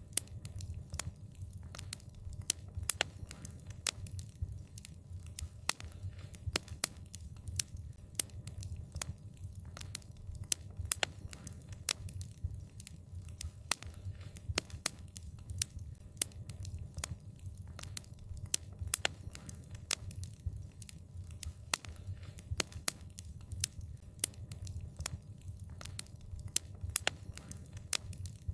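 Wood fire crackling: frequent, irregular sharp pops and snaps of burning wood over a steady low rumble of the flames.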